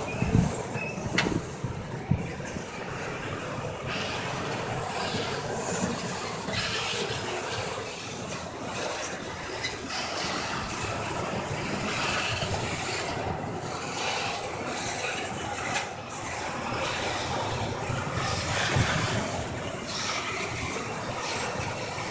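Intermodal freight train rolling past, a steady rush of steel wheels on the rails with a few short knocks.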